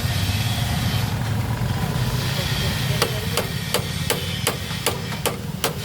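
Light hammer taps on metal, evenly spaced about three a second, starting about halfway through, over a steady low engine and traffic rumble.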